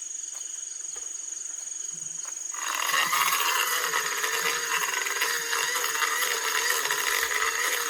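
Crickets chirping steadily. About two and a half seconds in, a steady rushing blow of air with a slightly wavering motor hum switches on: a small blower driving campfire smoke away.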